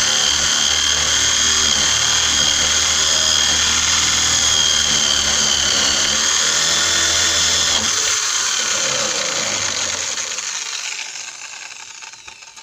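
Power drill boring a 23 mm hole into the wooden door edge for a deadbolt, running at a steady whine, then winding down and stopping near the end as the bit breaks through.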